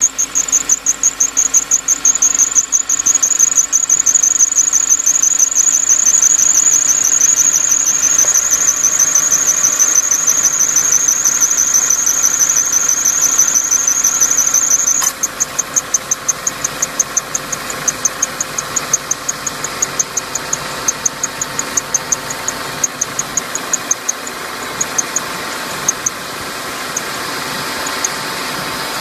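Subaru Levorg 1.6's flat-four turbo engine idling just after starting, with a rapidly pulsing high-pitched squeal over the engine sound. About halfway through the squeal drops off suddenly, then goes on as separate chirps that grow sparser and stop near the end. It is the abnormal noise this car has sometimes made right after start-up since it was new.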